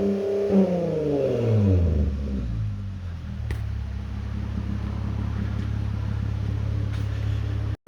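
2019 Dodge Challenger's 3.6-litre Pentastar V6 through a Flowmaster 40 Series dual-in/dual-out muffler, with the factory resonators and mufflers deleted: held briefly at high revs, then falling back over about two seconds to a steady idle.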